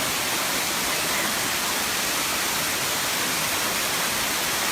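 Waterfall cascading at the seventh tier of Erawan Falls: a steady, loud rush of falling water.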